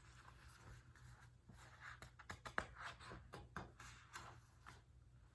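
Faint paper rustling with small irregular clicks as a picture book's pages are handled and turned, over a low steady hum.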